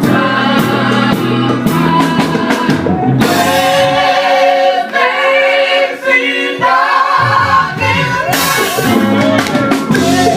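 Gospel group singing with a backing band and drums. About four seconds in, the bass drops out for roughly three seconds, leaving the voices over a lighter accompaniment, and then the full band comes back in.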